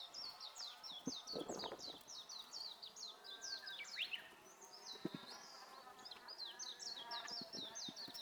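Small birds chirping: a rapid series of short, high chirps, about four a second, with a short different warbling phrase around the middle before the chirping resumes.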